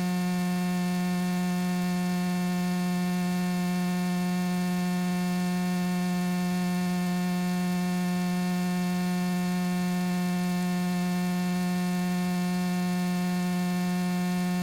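Steady electrical hum on the cockpit radio and intercom audio feed: one low tone with many even overtones, unchanging in pitch and level.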